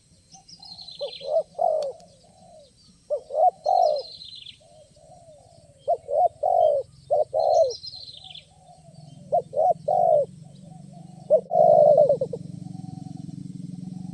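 Spotted doves (tekukur) cooing in repeated phrases of two to four notes, each phrase ending in a louder rolling note. A high, falling chirp from another bird sounds four times. A low hum comes in about nine seconds in and gets louder near the end.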